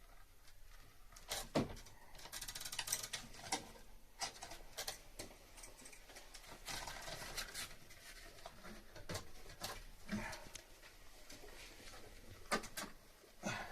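Irregular knocks and clicks of hand work with tools and materials, with two brief stretches of rasping or scraping.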